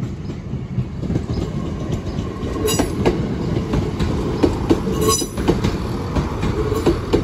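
Class 170 Turbostar diesel multiple unit passing: a steady loud rumble, with the wheels clacking over the rails, sharpest twice, a little under three and about five seconds in.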